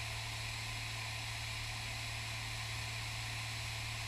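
Cessna 182S engine in flight, a steady low drone with an even hiss over it, as heard through the cockpit headset/intercom audio.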